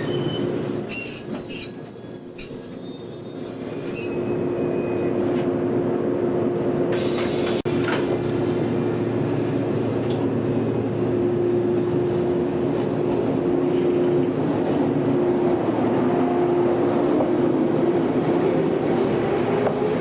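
Electric train running on the rails with a steady hum, high-pitched wheel squeal for the first few seconds, and a tone starting to rise in pitch near the end.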